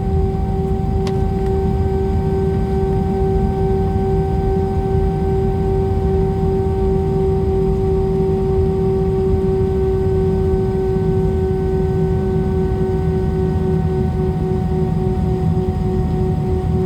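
Jet airliner heard from inside the cabin while taxiing: a steady low rumble with a constant high whine and its overtones over it. A single faint click about a second in.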